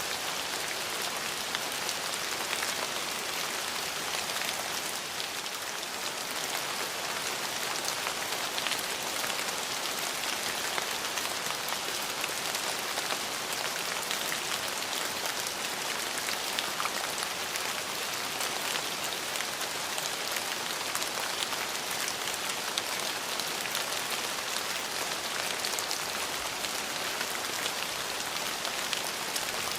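Steady rain falling, a dense even hiss flecked with the ticks of individual drops striking surfaces.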